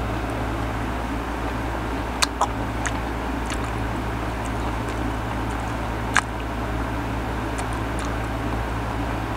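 Steady background hum and hiss, with a few sharp mouth clicks and crunches from chewing mango slices, a cluster about two seconds in and one stronger click about six seconds in.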